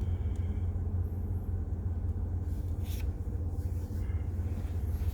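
A steady low background hum or rumble, with a faint click about three seconds in.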